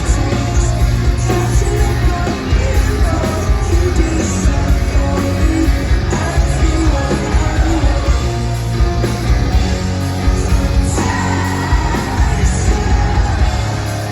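Live rock band playing loudly, with distorted guitars, heavy bass and drums and a sung or shouted vocal line.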